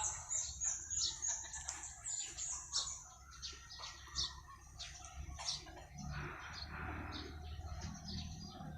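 A flock of small birds chirping, with many short, high chirps overlapping, densest in the first few seconds.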